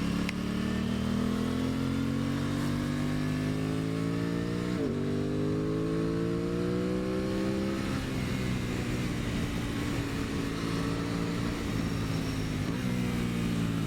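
Aprilia Tuono 660's parallel-twin engine pulling uphill under throttle, heard from the rider's position. The revs climb, drop sharply at an upshift about five seconds in, then climb again and settle. Near the end comes a brief dip as it shifts again.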